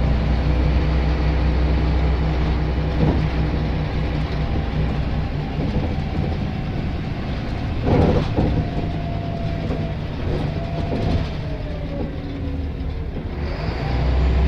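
Scania L94 single-decker bus engine running under way with a steady low drone and a faint whine above it, with a couple of sharp knocks from the bus body. The low drone swells near the end as the engine pulls harder.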